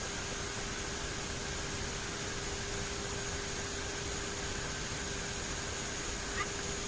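Turboprop airliner cockpit in the climb: a steady rush of engine and airflow noise with a constant hum and higher whine, and a faint click near the end.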